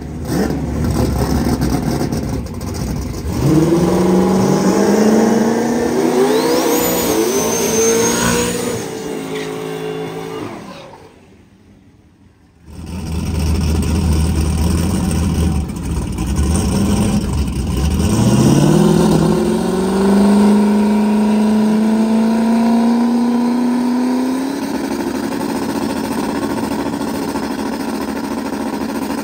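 Drag-race car engines revving hard at the starting line, their pitch climbing in stages. The sound drops out briefly about eleven seconds in. After that an engine climbs to a steady high speed, holds it for several seconds, then steps up again near the end.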